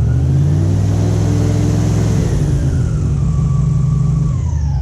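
Airboat engine and propeller running loud and steady under throttle as the boat moves up closer, with the pitch easing down near the end as the power comes off.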